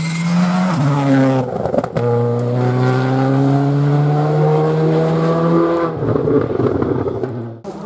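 Rally car engine pulling hard under acceleration: the note climbs, drops sharply at a gear change about two seconds in, then climbs steadily again for about four seconds before falling away, and cuts off abruptly near the end.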